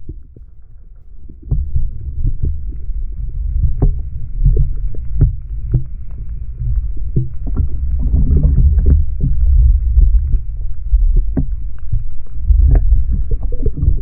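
Boat running across the water: a loud, low rumble with many sharp knocks scattered through it.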